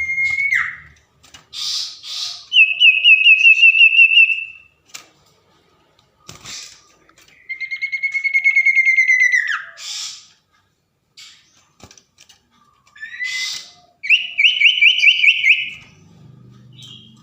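Common iora (cipoh) singing in three bouts: held whistled notes that slur downward at the end, and fast trills of rapid repeated notes, separated by pauses. Short harsh, noisy bursts fall between the phrases.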